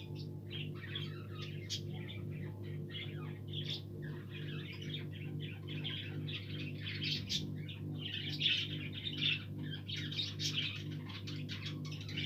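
A flock of budgerigars chattering and warbling in a continuous tangle of overlapping chirps, busiest in the second half. A steady low hum runs underneath.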